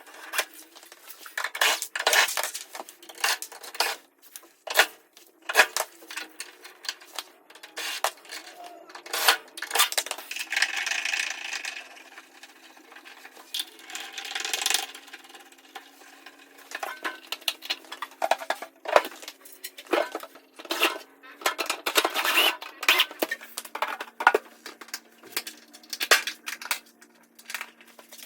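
Irregular clattering and clinking of small hard objects being handled, with a few longer scraping stretches.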